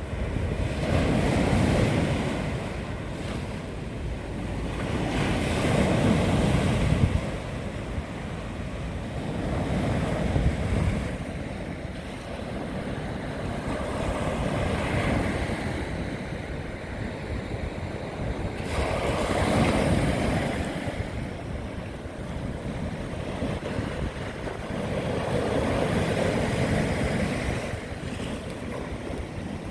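Sea waves breaking and washing in, rising and falling in slow swells about every five to six seconds. Wind is on the microphone.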